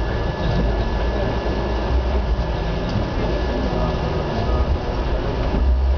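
Steady rumble and rattle of train wheels running on the track, heard from aboard a moving Indian passenger train as it passes the coaches of another train.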